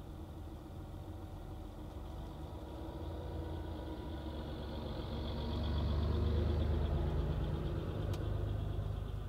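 Low, steady car-engine rumble heard from inside a car's cabin. Another car's engine grows louder as it approaches, is loudest about six to seven seconds in, then eases off. A single faint click comes just after eight seconds.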